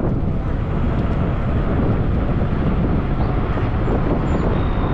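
Steady wind rush on the microphone with rolling noise from a fat-tyre e-bike underway.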